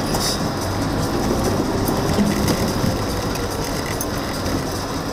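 Car driving slowly on a rough, narrow track: steady engine and tyre noise.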